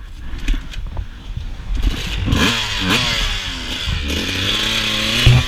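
Suzuki RM125 two-stroke dirt bike engine, just restarted after a crash. It is low and quiet for about the first two seconds, then revs up, its pitch rising and falling as it pulls away.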